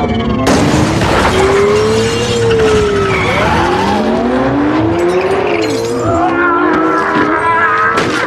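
Film chase sound: high-revving vehicle engines whose pitch rises and falls in repeated glides, with tyres squealing. A sharp hit comes about half a second in.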